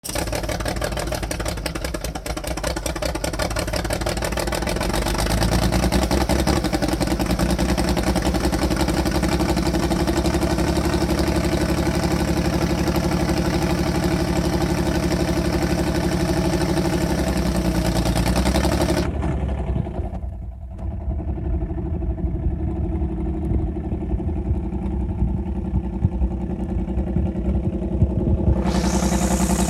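Tractor engine running steadily, a little louder after about five seconds. It dips briefly about two-thirds of the way through and sounds more muffled until near the end.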